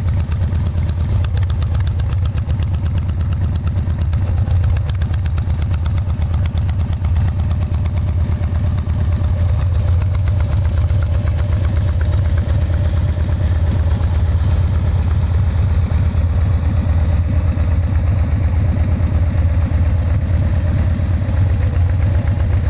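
Harley-Davidson Dyna Super Glide's V-twin idling steadily through Khrome Werks 2.5-inch slip-on mufflers, a deep even rumble with no revving.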